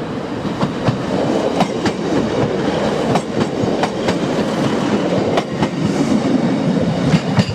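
A passenger train pulling out of the station with a steady low rumble, its wheels giving irregular sharp clacks over the rail joints and points.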